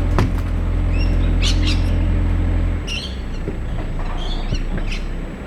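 Small birds chirping repeatedly in short falling notes, over a loud low vehicle rumble that drops away about three seconds in.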